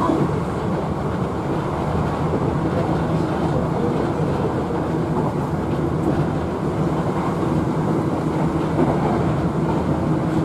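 Tobu 70090-series TH Liner electric train running at steady speed: an even, continuous rumble of wheels and running gear with a faint steady hum.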